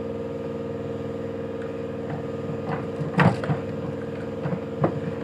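A steady machine hum runs throughout, with a sharp knock about three seconds in and another shorter one near the end.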